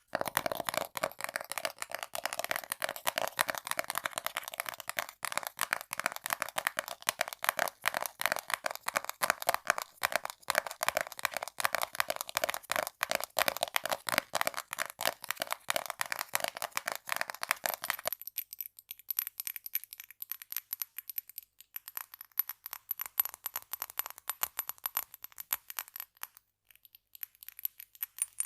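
Fast, continuous tapping on small objects, many taps a second. About eighteen seconds in it changes to lighter, thinner tapping, with a faint steady high tone behind it.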